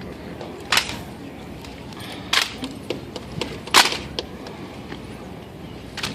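Sharp wooden-and-metal cracks of M1 Garand rifles being slapped, spun and caught in silent rifle drill. Three loud strikes come about a second and a half apart, with lighter clicks between them.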